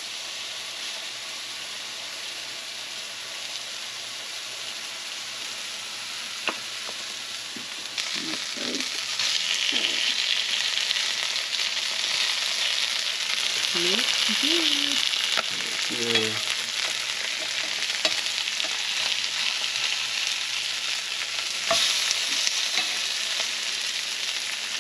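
Sheepshead fillets sizzling in garlic butter in a hot cast-iron skillet, a steady frying hiss that grows louder about eight seconds in. Metal tongs turn the fillets, with a couple of sharp clicks against the pan.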